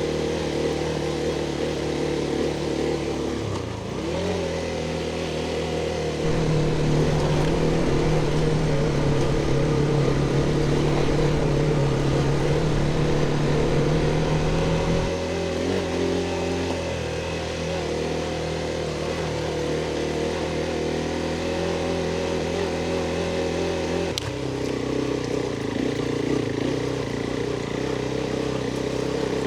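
Adventure motorcycle engine running while riding, holding steady revs that step up about six seconds in, drop back about fifteen seconds in, and change again near twenty-four seconds.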